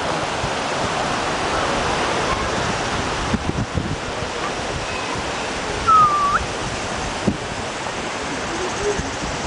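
Steady rush of falling water, with a short high whistle about six seconds in.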